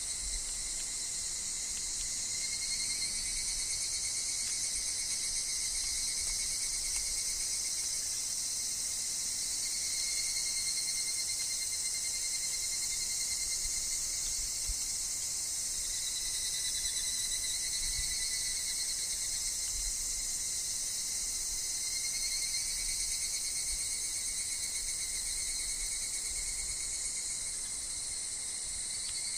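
Steady chorus of higurashi (evening cicadas) and other insects: a dense, high, continuous shrill, with narrower tones that swell and fade every few seconds.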